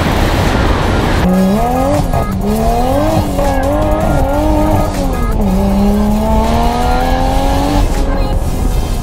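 Car engine revving, its pitch climbing and falling several times as it accelerates and eases off, then rising slowly and steadily in one gear. Before that, for about the first second, there is only a rush of wind and road noise.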